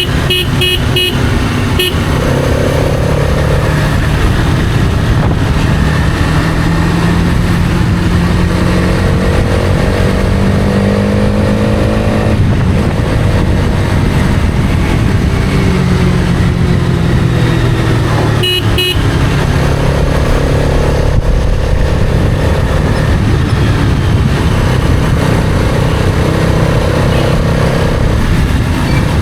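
Hero Karizma XMR's single-cylinder engine running under way. The revs climb and drop repeatedly as it shifts gear. Short horn beeps sound at the start and again about 18 seconds in.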